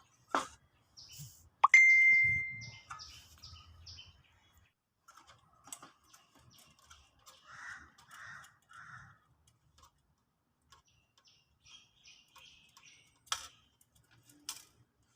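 Screwdriver and small metal parts being worked while screws and the thermal fuse are taken out of a rice cooker: scattered clicks and taps, with one sharp metallic clink ringing briefly about two seconds in. A few short chirps come in the middle.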